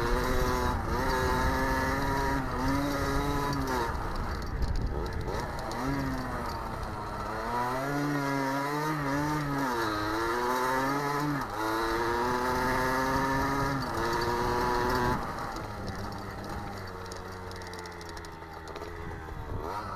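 Motocross dirt bike engine running, its pitch repeatedly rising and falling with the throttle. About fifteen seconds in it settles to a lower, quieter, steadier note.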